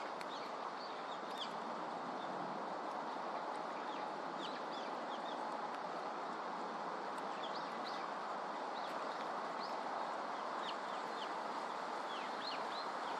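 Birds chirping in short, high calls scattered all through, over a steady outdoor background hiss.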